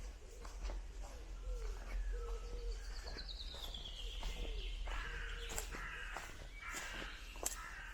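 Footsteps on a woodland path with several birds calling: short low wavering calls repeat through the first half, one long call falls steadily in pitch around the middle, and busier, higher chirping fills the last few seconds.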